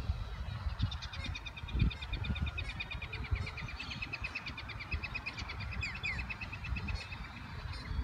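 Birds calling from a tree: a long, fast trill of high repeated notes starts about a second in and runs for about six seconds. Low rumbling from wind on the microphone lies underneath.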